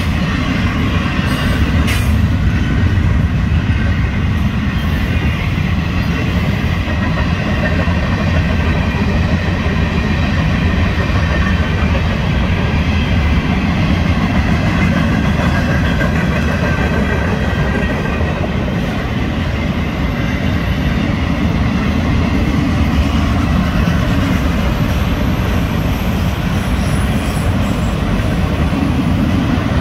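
Florida East Coast Railway freight train's cars rolling past at close range: steady rumble of steel wheels on the rails, with a faint high wheel squeal over it.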